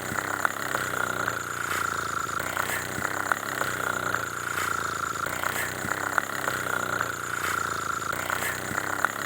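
Steady engine-like running sound with a constant whine, a pattern that repeats about every second and a half, and scattered light clicks.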